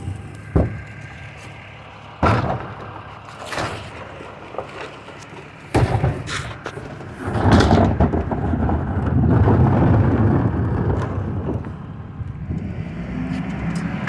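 Recycling truck at work: a series of sharp bangs and clatters, then a few seconds of louder, steady rumble.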